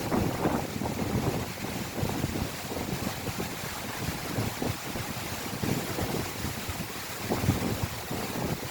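Strong wind buffeting the microphone in uneven gusts, a low rumbling rush that surges and eases.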